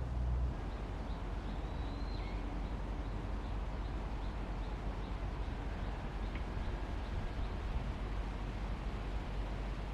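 Outdoor ambience with a steady hiss, and a small bird chirping faintly in a rapid repeated series, with a brief higher call about two seconds in.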